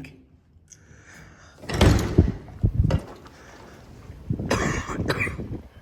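A person sneezing twice, about two and four and a half seconds in, from allergies.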